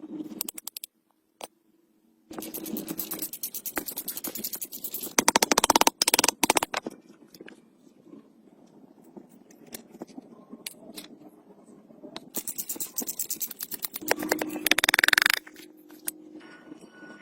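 Rapid scraping in bursts of a few seconds, with quieter scattered scrapes and clicks between.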